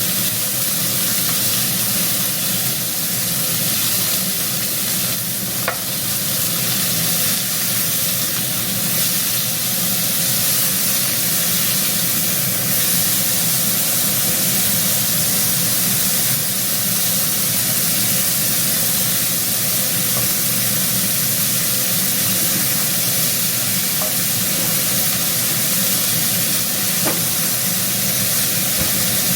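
Beef short ribs frying in hot oil: a steady, even sizzle with an occasional faint click.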